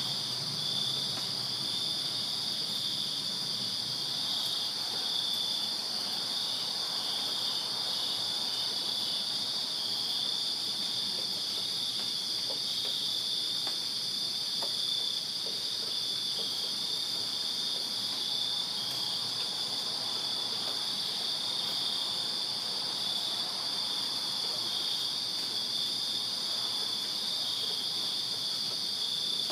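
A chorus of crickets chirping together in a steady, unbroken high-pitched trill, with two close pitches layered over each other.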